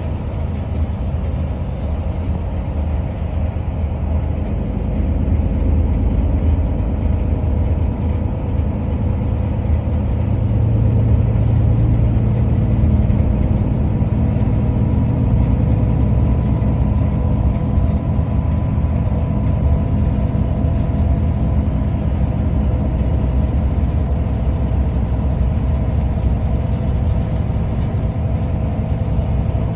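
Steady engine hum and low rumble of a moving vehicle heard from inside, growing somewhat louder about ten seconds in.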